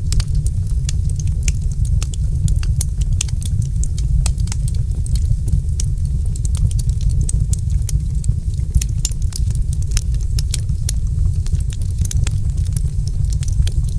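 Wood fire burning in a fireplace: a steady low rumble with many sharp, irregularly spaced crackles and pops.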